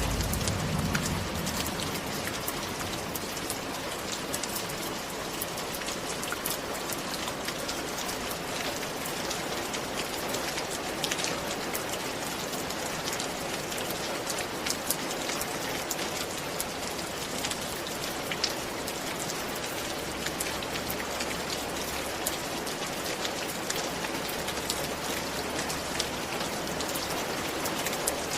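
Steady rain falling, with a close patter of individual drops striking a surface.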